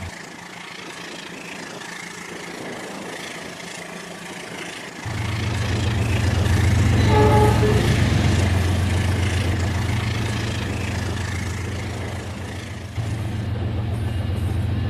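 Rail King toy train running on its track: a steady low motor hum that starts about five seconds in, with running hiss and a brief toot about seven seconds in.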